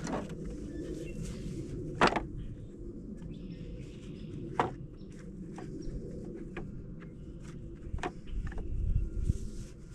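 Firewood being handled: irregular sharp wooden cracks and knocks, the loudest about two seconds in, with smaller ticks between and a low rumble near the end.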